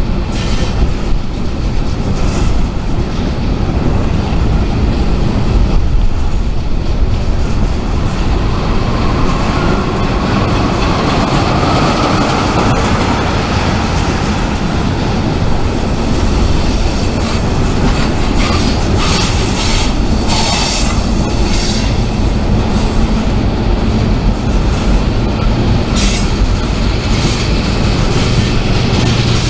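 Freight train rolling by with a steady heavy rumble and wheel clatter. A wheel squeal rises and falls about a third of the way through, with sharper high screeches and clanks later on.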